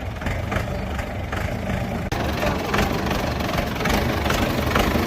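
Tractor diesel engine running with a regular knocking beat, about three beats a second. About two seconds in the sound breaks off for an instant and comes back louder, with the beat a little faster.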